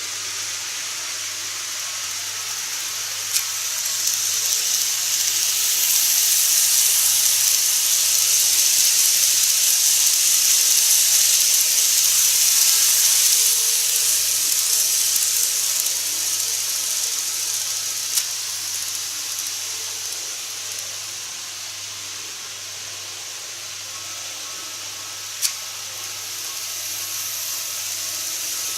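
KATO model train running on its track, with a steady high rolling hiss that swells as the train draws near and eases as it moves away. Three sharp clicks come about 3, 18 and 25 seconds in.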